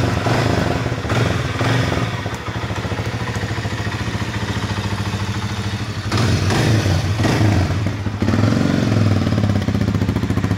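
Kawasaki KL250 Stockman's single-cylinder four-stroke engine running at idle, with the throttle opened up about six seconds in and again from about eight seconds.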